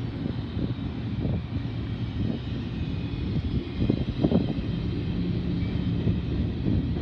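Freight train of double-stacked container cars rolling past as it gains speed: a steady low rumble with a faint high whine, and a louder knock about four seconds in.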